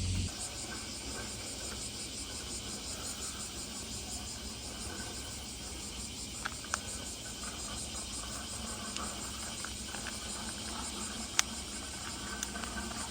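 Summer insects chirping in a steady, fast-pulsing chorus. A few sharp clicks sound over it, the loudest about eleven seconds in. A low rumble cuts off just at the start.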